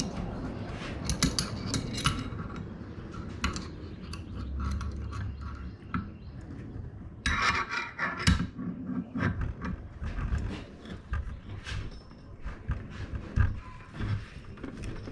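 Metal tools clinking, knocking and scraping against a jet-ski jet pump as a wrench is worked on a seized impeller that will not turn, with a denser run of metallic rattling about halfway through.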